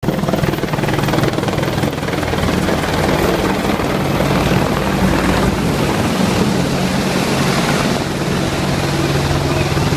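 Boeing AH-64A Apache attack helicopter in flight, its rotor and twin turboshaft engines running with a loud, steady sound.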